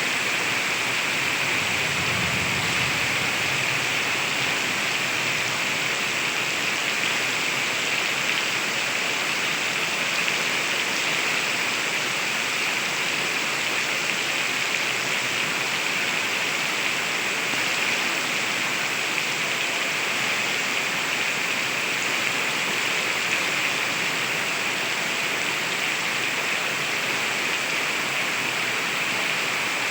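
Heavy rain pouring steadily, a dense even hiss with no break.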